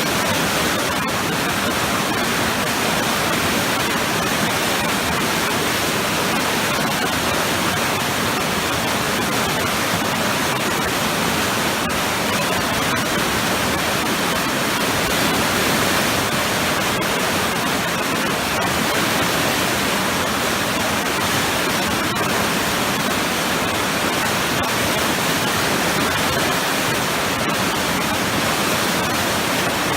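Waterfall pouring into a churning pool, a loud, steady rush of water with no change.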